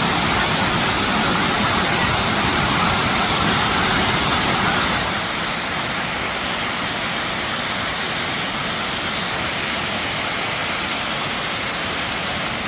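Steady rushing of a creek waterfall, an even wash of noise that drops slightly in level about five seconds in.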